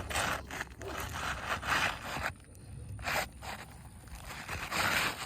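A new Owens Corning Oak Ridge asphalt shingle scraping against the gritty surface of the existing shingles as it is slid into place, in several rough strokes: a long one at the start, a short one about three seconds in and another near the end.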